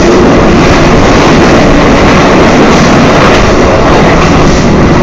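Loud, steady running noise of a moving passenger train, heard from inside the carriage: the wheels rumbling and rattling on the rails.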